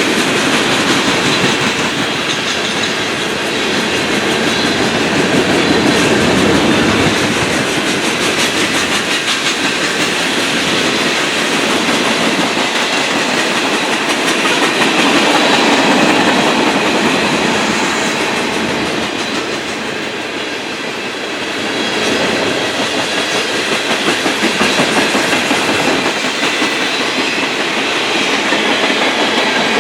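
A train's cars rolling steadily past, wheels clacking over the rail joints in a continuous rhythm, the sound swelling and easing slightly as the cars go by.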